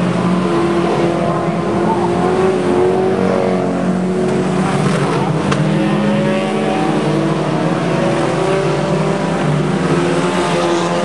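Several banger racing cars' engines running hard at once, their pitches rising and falling as the cars accelerate round the track and pass close by.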